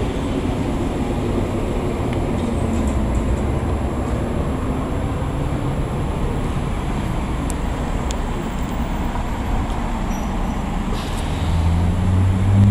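Harley-Davidson 883 Iron's air-cooled V-twin running through its exhaust with a steady, lumpy rumble, the revs starting to climb near the end.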